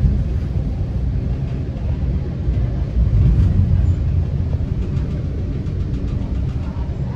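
Steady low rumble of a Metra commuter train in motion, heard from inside the passenger car, swelling slightly about three seconds in.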